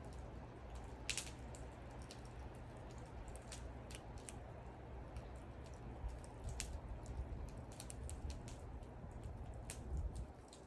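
Wood fire crackling: irregular sharp pops and snaps of burning wood over a low steady rumble.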